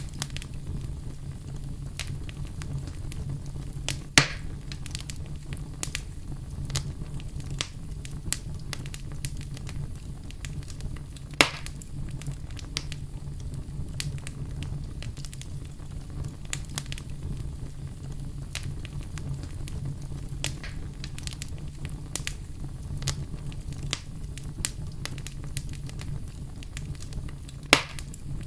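Wood fire crackling steadily, with many small pops and three louder snaps (about four seconds in, about eleven seconds in and near the end) over a low steady rumble.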